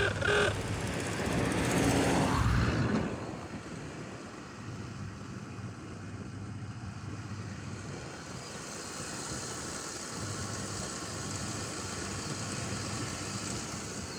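Steady road and engine noise of a vehicle driving, louder for a couple of seconds near the start.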